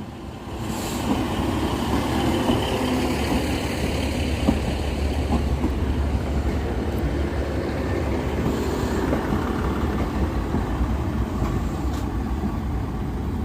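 Class 150 Sprinter diesel multiple unit running into a station platform: a steady low rumble of diesel engines and wheels on rail, with faint clicks, that swells about half a second in.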